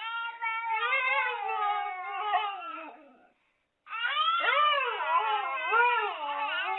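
A dog howling in two long, wavering calls that swoop up and down in pitch, with a short break between them.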